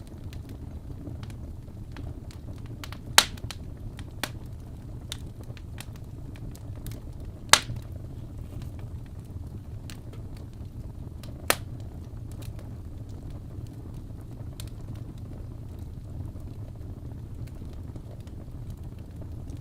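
Wood fire crackling in a fireplace: a steady low rumble with scattered sharp pops, the three loudest about three, seven and a half, and eleven and a half seconds in.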